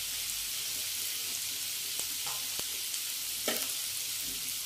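Diced potatoes and radish frying in hot oil in a wok, a steady sizzle. A few faint ticks come through around the middle.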